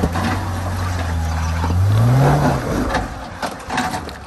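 Jeep Wrangler engine revving under load as it crawls up a steep rock slab. The engine note climbs sharply about two seconds in, then falls away, with a couple of sharp knocks near the end.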